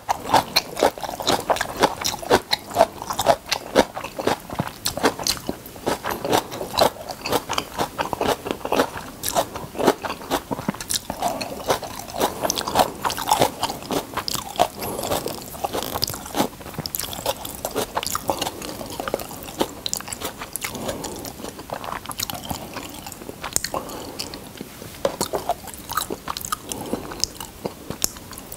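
Close-miked chewing of cabbage kimchi and rice: a steady run of crunchy bites and chews that thins out and gets a little quieter near the end.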